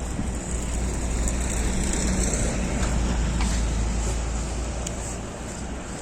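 A motor vehicle passing on the street, its engine and tyres rumbling louder for a few seconds, then fading.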